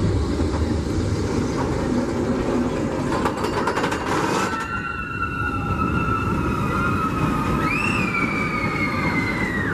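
Roller coaster train running with a steady rumble and a clatter. Riders' screams come in about halfway through as long, high cries, one rising then falling near the end.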